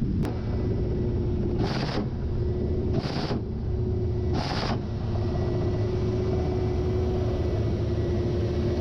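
Ka-52 attack helicopter's steady engine and rotor drone heard from on board, with a constant hum tone over it. Three short hissing bursts come about a second and a half apart in the first half.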